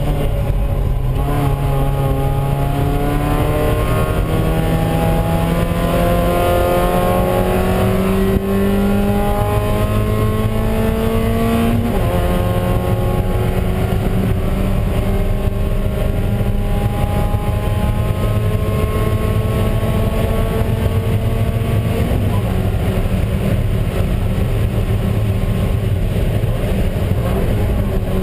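Spec Miata's four-cylinder engine pulling hard, heard from inside the cockpit. The pitch climbs steadily, drops sharply about twelve seconds in, then climbs slowly again before dipping once more about two-thirds through.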